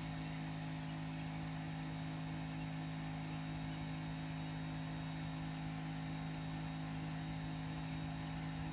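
A steady, low, unchanging hum, with no other sound standing out.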